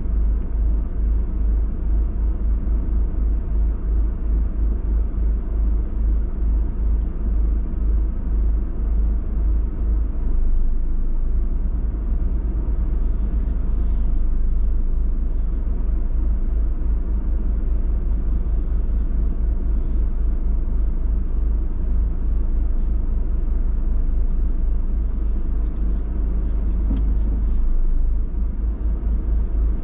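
Steady low rumble of a car, fluttering unevenly, with scattered short crackling or hissing noises about halfway through and again near the end.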